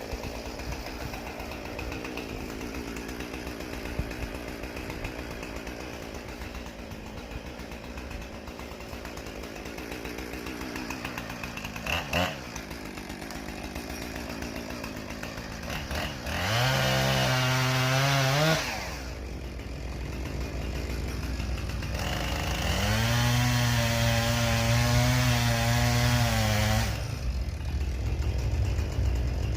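Two-stroke chainsaw idling, blipped once, then revved to full throttle twice: briefly about halfway in, and for a few seconds near the end, each time dropping back to idle.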